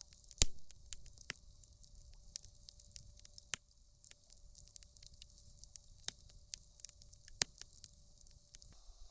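Wood campfire crackling: irregular sharp pops and snaps, the loudest about half a second in.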